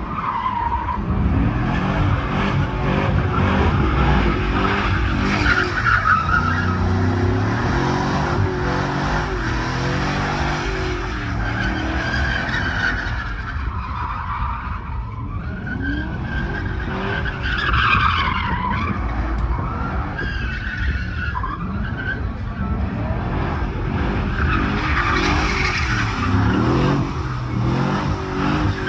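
Truck doing a burnout: the engine revs hard, rising and falling, while the spinning tyres squeal and scrub on the pavement.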